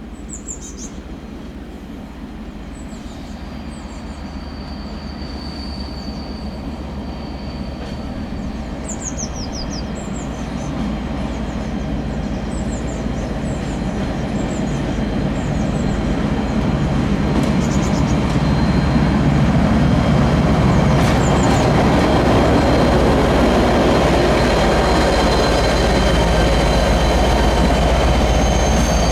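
A train approaching on the line, growing steadily louder for about twenty seconds and then running loud past, with a high wheel squeal starting near the end. Small birds chirp several times in the first ten seconds.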